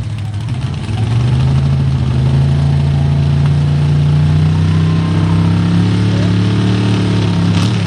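Big-horsepower mud truck engine running at a raised, steady idle as it is positioned at the start, picking up a little about a second in and holding there, then easing off near the end.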